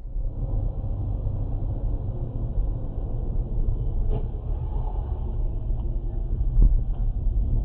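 Steady low rumble of a moving vehicle's engine and road noise, with a few faint clicks.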